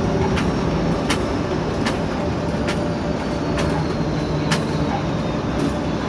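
TEP70 diesel locomotive running on the line, heard from the cab: a steady diesel rumble under a thin, high turbocharger whistle that slowly falls in pitch. Sharp clicks come about once a second.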